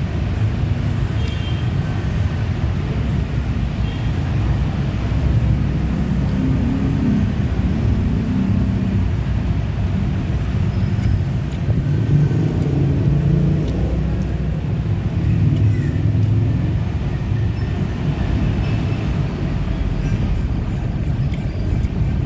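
Steady low rumbling noise with no clear breaks.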